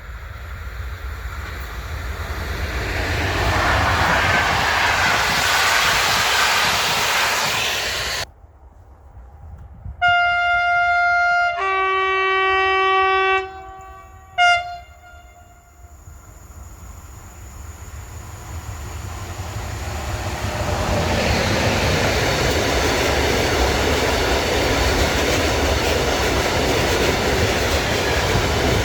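A train passing with rumble and wheel-on-rail noise, which cuts off suddenly. Then a train horn sounds: one long note, then a lower two-tone blast, then a short toot. After that, another train approaches and passes with steady rolling noise and rail clatter.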